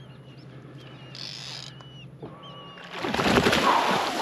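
Birds calling with short, repeated whistled notes over a low steady hum, then a loud rush of noise about three seconds in.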